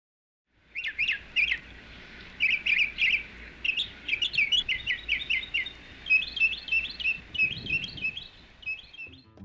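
Songbirds chirping: many short, high chirps in quick clustered runs, starting about half a second in.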